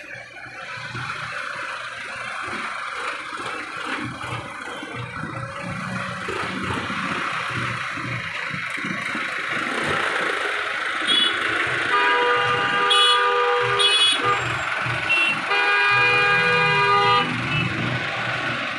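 Road traffic of engines and tyres growing steadily louder, with vehicle horns honking: a few short honks about eleven to fourteen seconds in, then one long honk lasting about two seconds.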